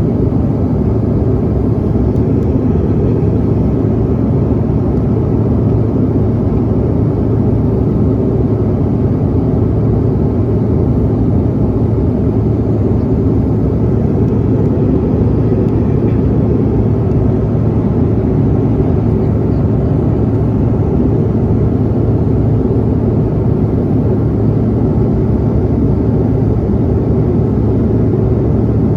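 Steady drone inside a regional jet airliner's cabin: engine and airflow noise with a low, even hum and no changes.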